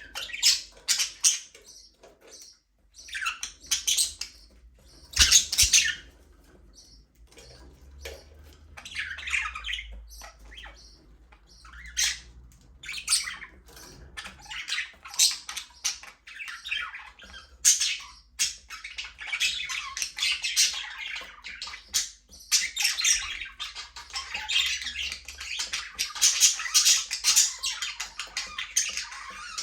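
Budgerigars chirping and squawking: scattered sharp calls at first, building from about twenty seconds in into dense, continuous chattering of several birds.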